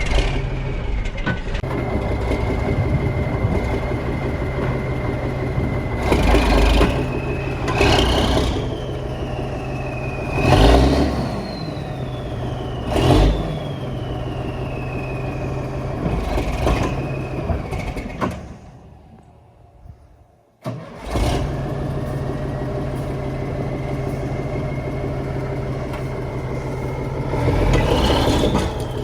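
Heavy truck's diesel engine running under load, revved hard several times as it strains to pull out of ruts with its brakes dragging. A high whine climbs with each rev and slowly falls back. The sound cuts out briefly about two-thirds through and comes back suddenly.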